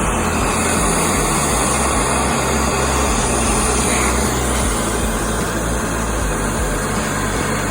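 The 1956 Ford F100 hot rod truck's engine running, a steady, loud sound with no breaks.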